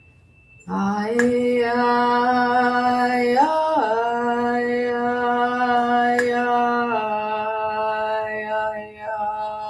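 A single voice toning one long held 'ya' vowel, the vowel sound for the heart, starting about a second in, with a brief upward bend in pitch midway and a slight drop near the end. A thin high tuning-fork tone rings along with it in the second half.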